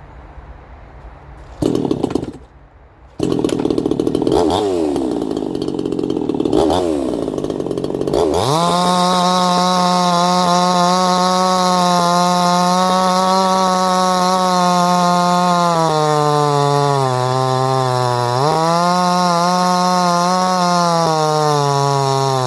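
Red nut 58cc Chinese two-stroke chainsaw running. It fires briefly, stops, then runs from about three seconds in and is blipped twice. From about eight seconds in it is held at full throttle, and the revs sag and pick up again before dropping near the end. This failure to hold revs is something the owner puts down to the ignition coil self-adjusting.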